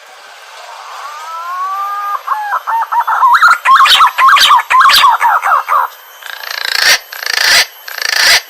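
Green pigeon (punai) calling: long, rising whistled notes that break into a quick, warbling run of whistles, followed near the end by several short, harsh rasping bursts.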